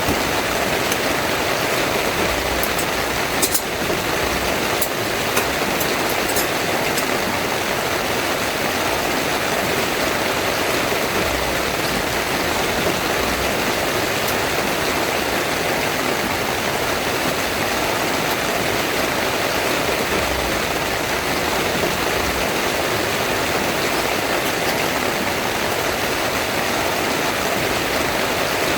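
Heavy rain pouring steadily on a tent, with a few sharp taps a few seconds in.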